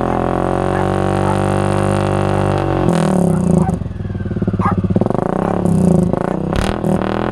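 Suzuki King Quad 750's single-cylinder four-stroke engine running through an HMF Swamp Series XL exhaust, which is extra loud. A steady drone is held at raised revs, then drops back about three seconds in, followed by a few short throttle blips.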